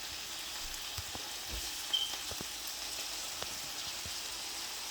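Cicadas and onion frying in hot oil: a steady sizzle with scattered small pops.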